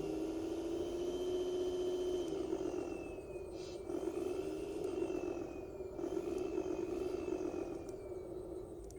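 A 1:14 scale RC MAN 8×4 dump truck running: a steady motor hum with a high whine above it that holds and then slides down in pitch, three times over, with a short break in between.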